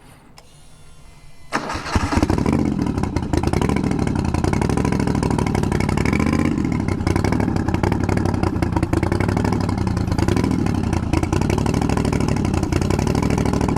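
Twin-turbocharged Moto Guzzi V50 III's V-twin engine starting about a second and a half in, then running loudly with the throttle rising and falling.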